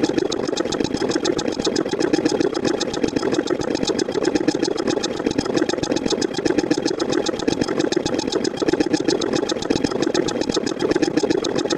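A steady, loud buzzing drone made of rapid, evenly spaced pulses, with no change throughout.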